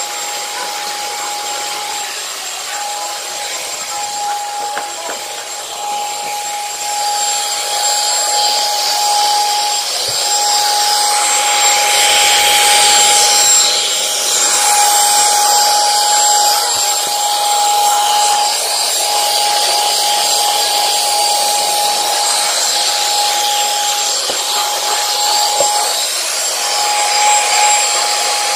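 Commercial vacuum cleaner running with a steady motor whine. Its suction gets louder and rougher from about seven seconds in, as the nozzle is worked over carpet.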